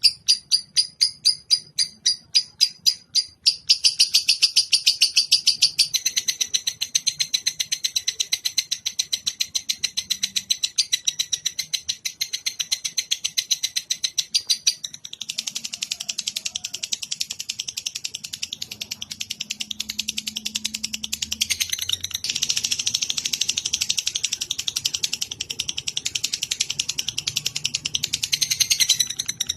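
A songbird's long, rapid, shrill chattering trill, recorded as tutoring song. It starts as separate chirps about eight a second, then runs together into a dense continuous trill from about six seconds in, with brief breaks about halfway and two-thirds through.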